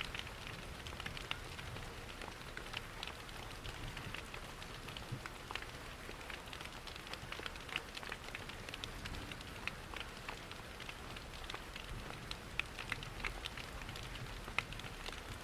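Steady rain mixed with a crackling wood fire: an even rushing hiss with frequent small, sharp pops and ticks scattered throughout.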